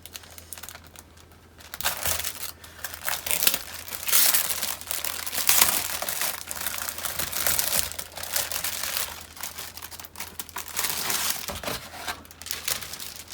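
Kit packaging being opened by hand: crinkling, rustling and some tearing that starts about two seconds in and goes on in busy bursts.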